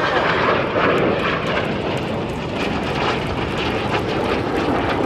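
Jet engine noise from BAE Hawk T1 display jets in flight, a steady, dense rushing noise with no break.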